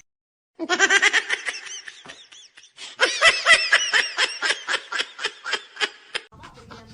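High-pitched laughter in quick repeated bursts, two fits with a short break between.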